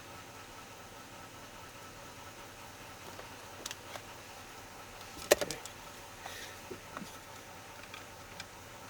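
Small clicks and taps of hands handling parts, with one sharp click about five seconds in followed by a few quicker ones, over a faint steady hum.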